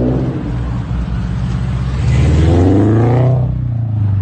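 Car engine running steadily, then rising in pitch as it accelerates from about two seconds in, easing off shortly before the end.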